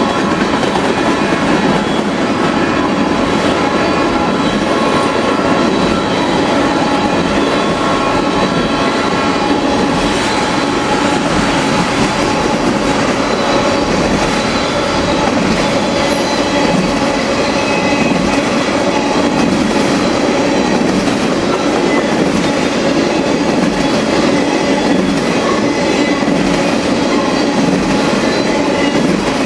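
A freight train of tank cars rolling steadily past, its steel wheels clicking over the rail joints, with some wheel squeal.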